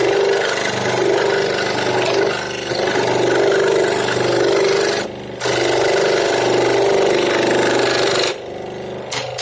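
Electric power tool working a piece of wood, its motor running steadily with the cutting noise swelling and easing as the work is pressed in. It cuts out briefly about halfway and stops about a second before the end.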